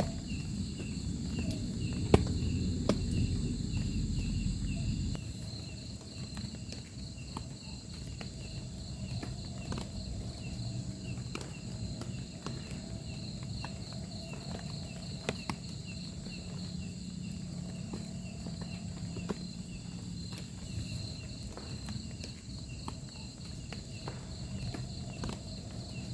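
Forest ambience: insects chirping in steady, fast pulsing trills, with scattered sharp taps. A low rumble during the first five seconds then fades.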